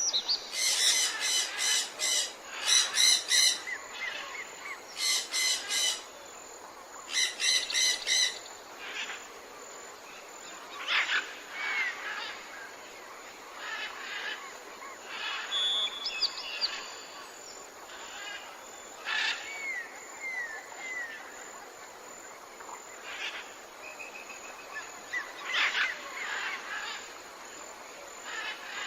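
Several wild birds calling: a loud run of harsh, buzzy calls comes in four groups over the first eight seconds, then sparser chirps, short whistles and small falling notes follow over a faint steady background hiss.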